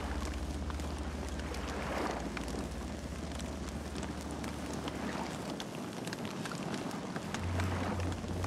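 Campfire burning, with irregular sharp crackles and pops of burning wood over a steady low rumble.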